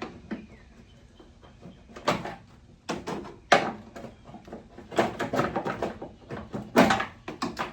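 Handling noise: an irregular run of knocks, clicks and rustles, densest about five to six seconds in.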